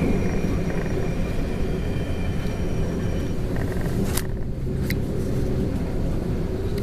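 Regional train running along the track, heard from inside the carriage: a steady low rumble of wheels and running gear, with a faint high whine in the first few seconds and a single sharp click about five seconds in.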